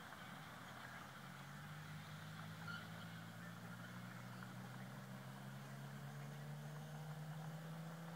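Dodge Avenger's exhaust, fitted with a high-flow catalytic converter and an aftermarket muffler, idling with a quiet, steady low drone.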